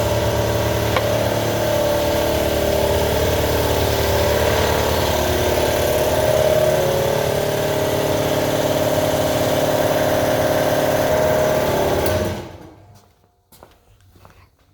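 Electric power sander running steadily as it sands a wooden piece with 220-grit paper. It is switched off about twelve seconds in and winds down.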